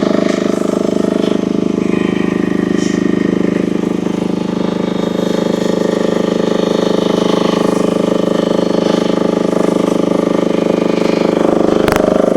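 Engine of a UME10P mini excavator running steadily while the tracks are driven slowly to work a thrown track back onto the rear drive sprocket, with one sharp click near the end.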